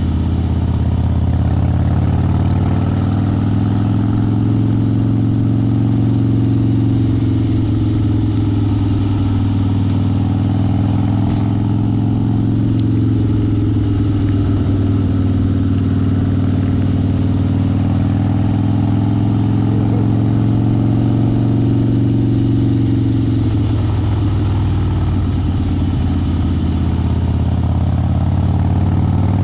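Harley-Davidson V-twin motorcycle engine running under way at a steady cruise, its pitch rising and falling gently with the throttle.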